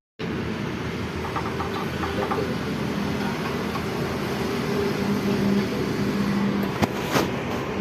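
Massey Ferguson tractor's diesel engine running steadily while its refitted gearbox is tested in gear, with a sharp metallic click and clink about seven seconds in.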